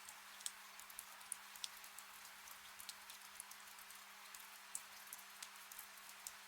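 Gentle rain falling, faint: a steady soft hiss with many scattered sharp drips of single drops landing close by, and a faint low steady hum beneath.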